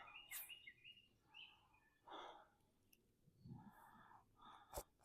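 Faint, heavy breathing close to the microphone, about three breaths in the second half, from a man with chest and sinus congestion. Faint birdsong near the start and a sharp click just before the end.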